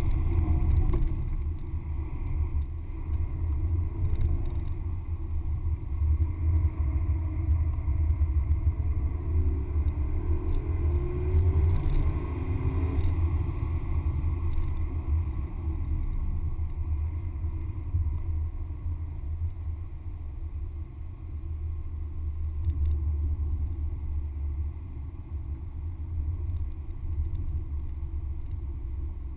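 Cabin noise of a Porsche Panamera Turbo driven at speed: its twin-turbo V8 and the road and wind rumble running steadily, with the engine note rising under acceleration about ten seconds in.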